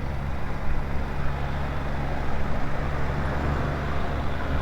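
BMW G 310 GS single-cylinder motorcycle engine running steadily while riding, with a constant rush of road noise.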